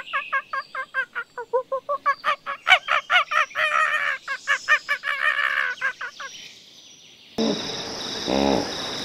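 Geese or similar waterfowl giving a fast series of short honking calls, several a second, that stops about six seconds in. After a short lull the sound cuts abruptly to a steady hiss with a low, drawn-out animal call.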